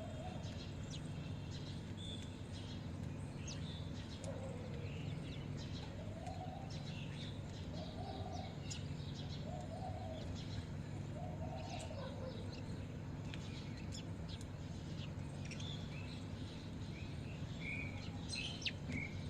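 Several birds chirping, with many short high chirps throughout and a run of about six short, lower calls in the middle, over a steady low hum.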